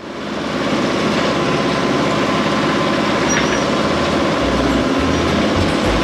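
New Holland WorkMaster 55 tractor's diesel engine running steadily, with wind buffeting the microphone from about four seconds in.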